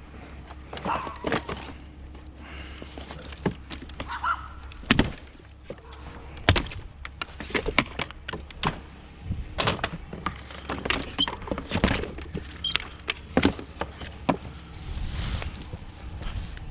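Scrap being handled and taken apart by hand: an irregular string of knocks, clanks and thuds, some of them sharp and loud.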